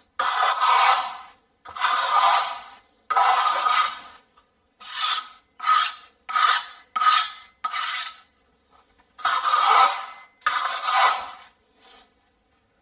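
A steel filling knife scraping across the wall as GIB finishing compound is skimmed over a mesh patch. It makes about a dozen separate strokes, quicker in the middle, with a slight metallic ring in each scrape.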